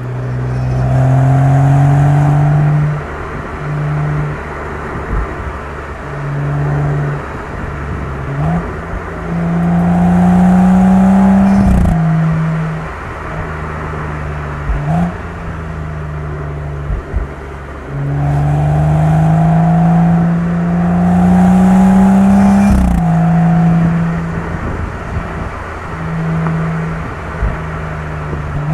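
BMW M135i's turbocharged 3.0-litre inline-six exhaust under hard acceleration: in two long pulls the engine note climbs steadily in pitch, then drops sharply at the upshift with a crack. Between the pulls it runs steadier, with short bursts of throttle.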